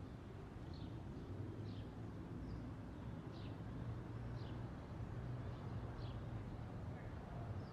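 Faint chirping of a small bird: short falling notes about once a second, over a low steady hum.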